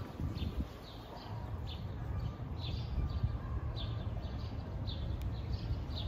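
Small songbirds chirping repeatedly in short, high chirps, a few each second, over a steady low outdoor rumble.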